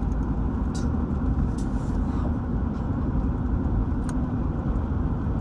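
Steady low rumbling background noise with a faint constant hum and a few faint ticks.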